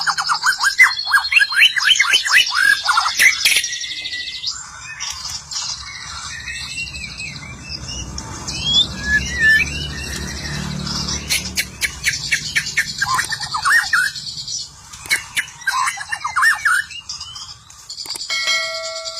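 White-rumped shama (murai batu) singing a varied song of chirps, whistles and quick trills. It opens with a fast run of rattling notes, then goes on with scattered whistled phrases.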